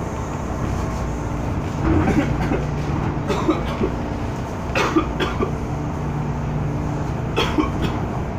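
MTR M-Train electric multiple unit running, heard from inside the car: a steady rumble with a low hum. Several short, sharp noises stand out above it, about two, three, five and seven seconds in.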